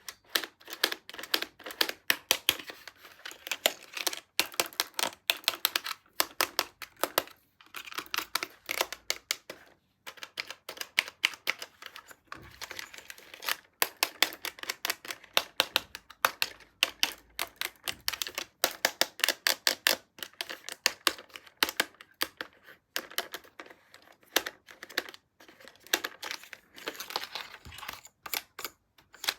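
Rapid, irregular clicking and tapping of hard plastic, with some crinkling, from toys and their packaging being handled.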